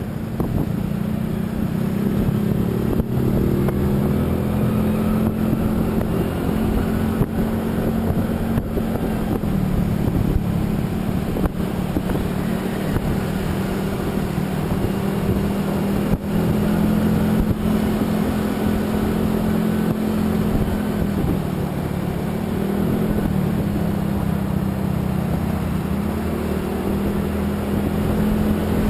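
A motor vehicle's engine running steadily while driving, over road and wind noise. Its pitch steps down about ten seconds in, then dips and climbs again in the last third.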